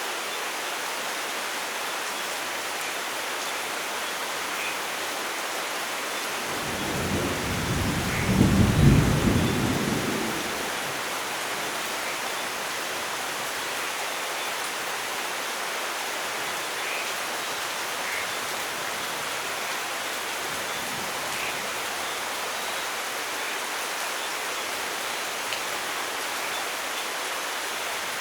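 Steady light rain with a single rumble of thunder that swells about six seconds in, peaks around the ninth second, then dies away.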